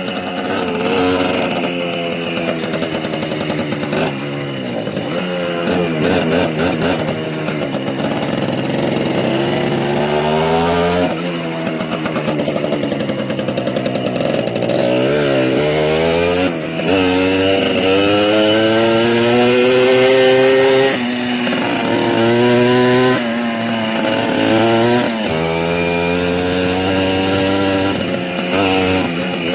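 Small motorcycle engine running under way, its pitch climbing as it revs and dropping back at each gear change, over and over.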